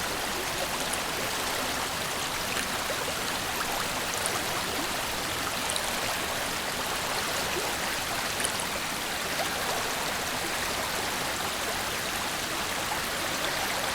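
A river flowing steadily: an even rush of running water, with a few faint small splashes and drips.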